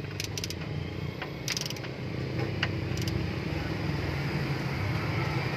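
Ratchet wrench clicking in three short runs, turning the engine's crankshaft by hand to bring the pistons up for comparison, over a steady low hum.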